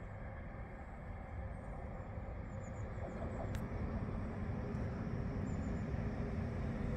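A passenger train approaching through the station, its low rumble growing slowly and steadily louder.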